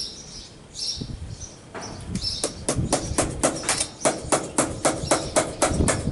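Hammer tapping a steel lacing pin through the splice of a New Holland 648 baler belt: quick, light, evenly spaced metallic taps, about four or five a second, starting a couple of seconds in.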